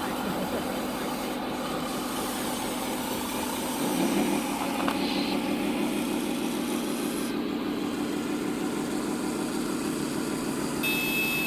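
Radio-controlled scale truck running on dirt: a steady gritty grinding and whirring of its motor, gears and tyres, which gets louder about four seconds in.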